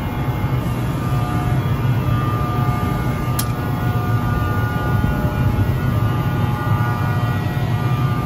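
Steady low engine drone with faint steady whining tones above it, and a single sharp click about three seconds in.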